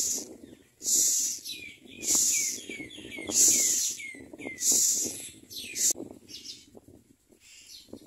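Common myna nestlings begging: a harsh, hissing rasp repeated about once a second, with short falling chirps between, dying away about six seconds in.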